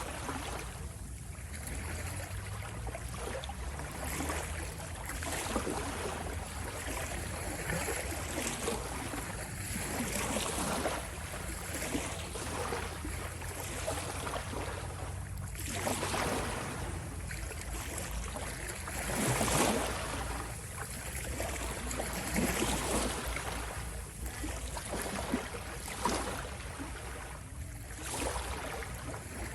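Ocean waves washing in and drawing back, a constant hiss that swells every few seconds, loudest about two-thirds of the way through, over a steady low rumble.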